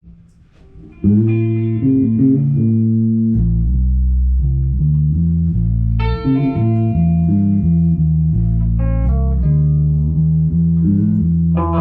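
Guitar and bass guitar playing an instrumental tune: plucked guitar notes start about a second in, and a low bass line joins a couple of seconds later.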